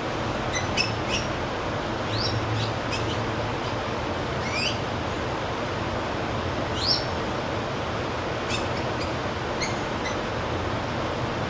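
Wild birds giving scattered short chirps and a few quick rising calls over a steady background hiss with a low hum.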